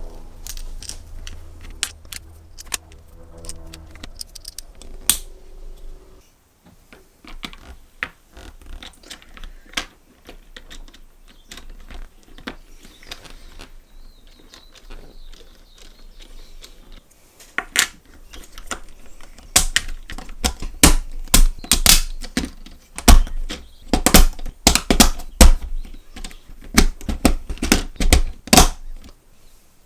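Irregular clicking and rattling of LEGO Technic parts, sparse at first and then denser and louder in the last third, with a low hum under it at the start and again near the end.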